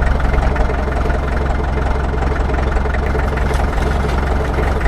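An engine idling steadily, without change in speed.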